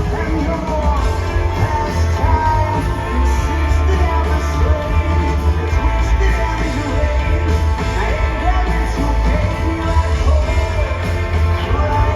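Rock band playing live: electric guitar, bass and drums, loud and continuous.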